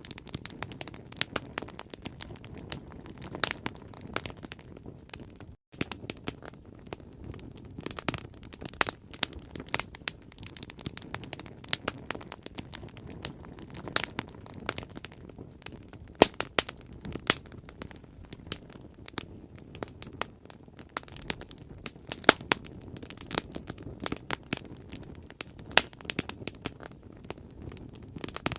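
Bonfire crackling: irregular sharp pops and snaps over a low, steady rush of burning wood. The sound cuts out completely for a split second about five and a half seconds in.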